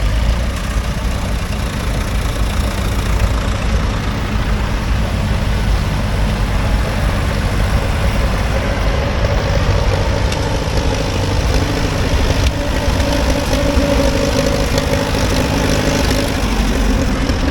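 Vintage farm tractor engines running steadily at low revs, with a low throb; a higher engine note joins about halfway through.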